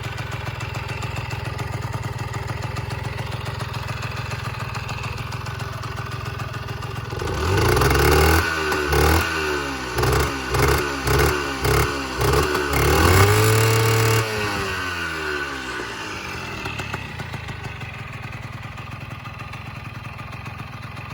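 Honda Raccoon AD02's small engine idling, then blipped through a quick series of about seven short revs and one longer rev, each rising and falling in pitch, before settling back to a steady idle.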